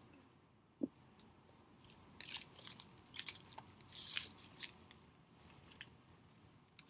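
Faint rustling and crackling of grass and leaves as a child rummages through the plants picking up cereal pieces, in a string of short scratchy bursts from about two seconds in to near the end.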